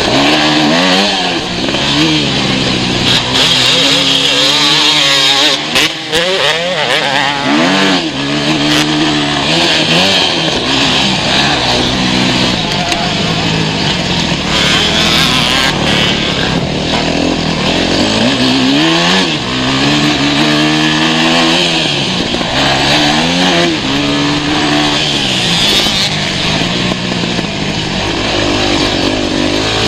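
Motocross bike engines revving hard, their pitch climbing and dropping again and again every second or two as the riders open the throttle and shift.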